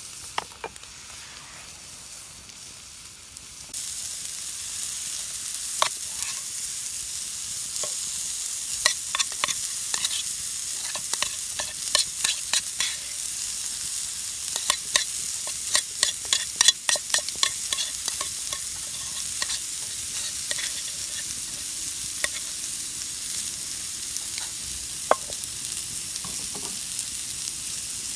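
Food sizzling on a hot, thick iron plate, a steady high hiss with frequent sharp pops and spatters. The sizzle jumps up suddenly about four seconds in.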